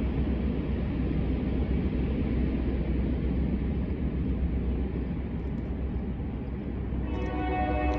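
Low, steady rumble of an approaching freight train's diesel locomotives. About seven seconds in, the locomotive horn starts to sound as a held chord.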